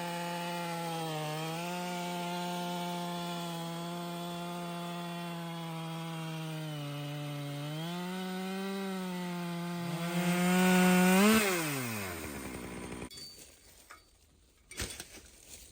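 Husqvarna two-stroke chainsaw on an Alaskan chainsaw mill, cutting lengthwise through a white oak log and running steady under load with small shifts in pitch. About ten seconds in it revs higher and louder, then is shut off and winds down. A few knocks follow.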